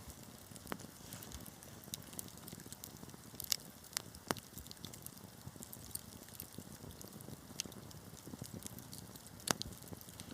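Wood fire burning in a fireplace, a low steady hiss broken by irregular sharp crackles and pops, a few louder ones about three and a half, four and nine and a half seconds in.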